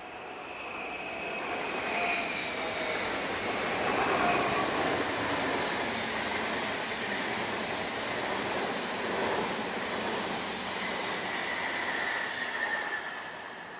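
A train passing by the track. The rolling noise builds over about two seconds, holds steady for about ten seconds and then fades. A thin high whine, typical of squealing wheels, sounds about two seconds in and again near the end.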